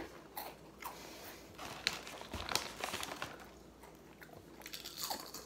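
Extra-hot Cheetos being bitten and chewed, with irregular crisp crunches.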